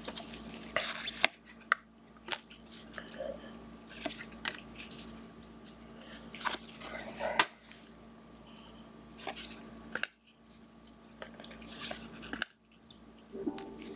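Trading cards and wrappers being handled: a run of rustling, sliding and sharp clicks as cards are shuffled and set down, with a louder snap or tap about a second in and another after about seven seconds.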